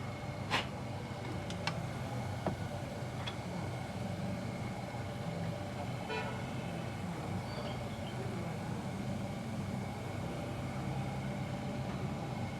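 Car engine running steadily at idle, a continuous low hum with a few sharp metallic clicks in the first few seconds.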